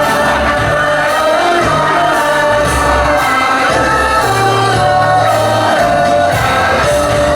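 Live rock band playing loudly: sung vocals over a changing bass line and sustained instrument notes.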